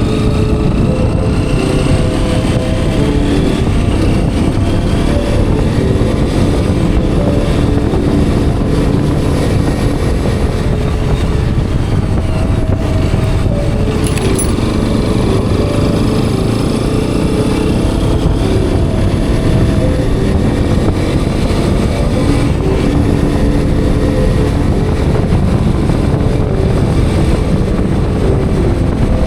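Hero Xpulse 210's single-cylinder engine running under way, its pitch stepping up and down with throttle and gear changes, over heavy wind and road noise.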